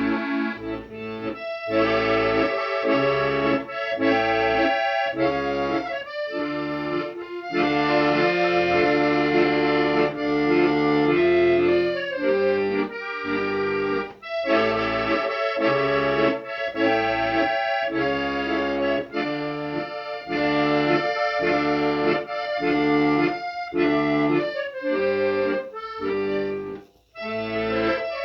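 Accordion music: a tune with rhythmic chords, in the style of traditional folk music.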